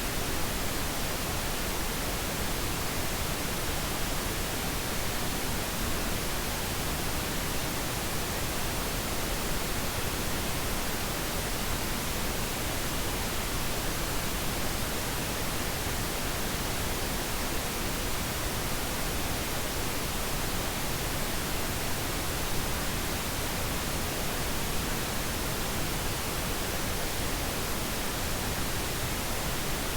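Steady, unchanging pink noise: an even hiss across the whole frequency range, with no tones or breaks.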